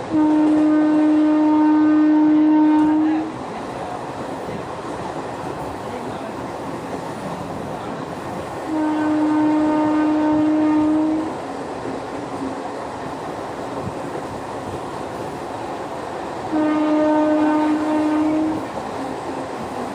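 Train horn sounding three long blasts, each two to three seconds, several seconds apart, over the steady rumble and rattle of the moving train.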